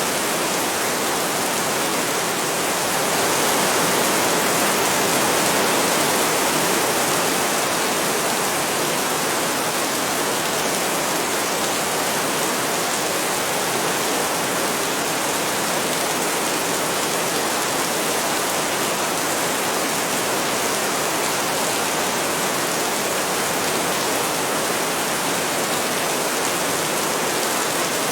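Heavy rain falling steadily: a dense, even hiss that swells slightly a few seconds in.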